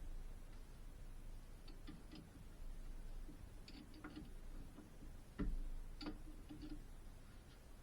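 Irregular light clicks and taps of tools or parts being handled, with a sharper knock about five and a half seconds in, over a low steady hum.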